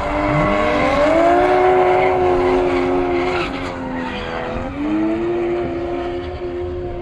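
Drift car engines revving up hard and held at high revs, with tyre squeal. The revs dip sharply about four and a half seconds in and climb straight back up.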